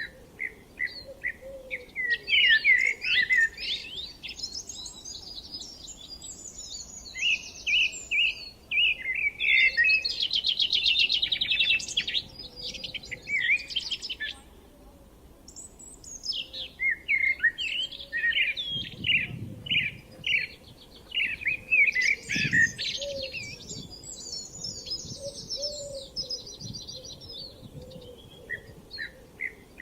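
Songbirds singing: bursts of quick repeated chirps and a fast trill about ten seconds in, with a brief lull near the middle.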